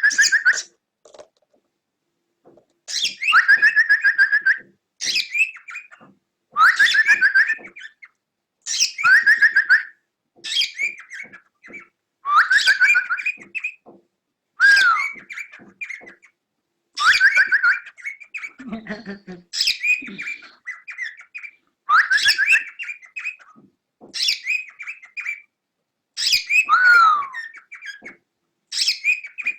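Cockatiel calling over and over, a loud whistled call about every two seconds, the last few sliding down in pitch.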